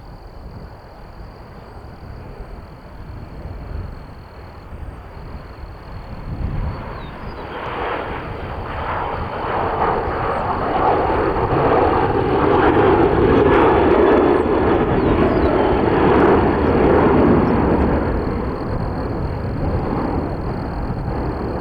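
Jet noise from a Boeing P-8A Poseidon's two CFM56 turbofan engines as it passes close, growing steadily louder over about twelve seconds, peaking, then easing slightly toward the end.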